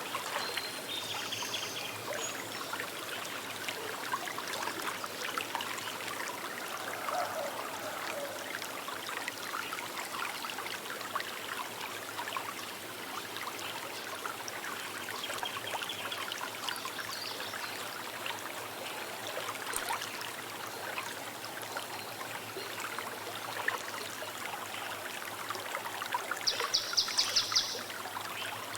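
Small river flowing and trickling steadily. Near the end a bird gives a rapid run of high notes, about six a second.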